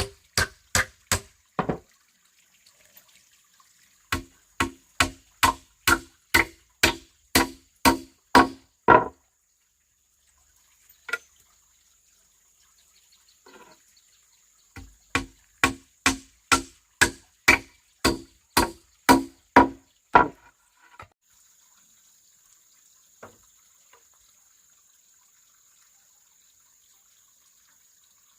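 A hand tool striking bamboo in steady blows, about two a second, each with a hollow ringing knock, in three runs broken by pauses.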